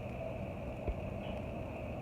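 Steady outdoor background noise with a faint, steady high-pitched buzz, broken by one short, low thump just under a second in.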